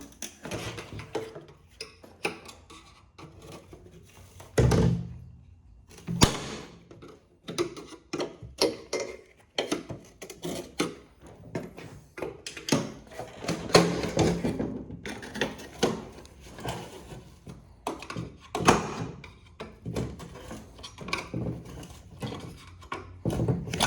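Metal parts of a dismantled printer being bent and worked loose by hand: irregular knocks, clanks and scrapes, with a heavier thud about four and a half seconds in.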